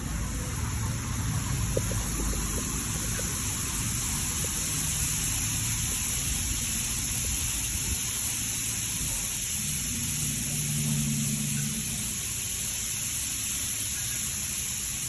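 High-pressure water jets of a touchless automatic car wash spraying steadily against a car, a constant hiss over a low rumble of pumps and machinery. A low hum rises briefly about ten seconds in.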